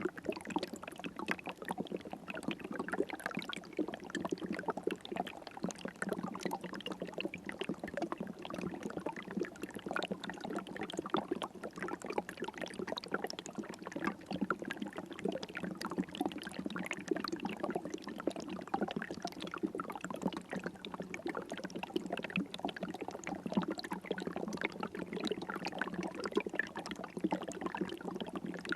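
River water flowing, a steady babble and trickle of moving water with no let-up.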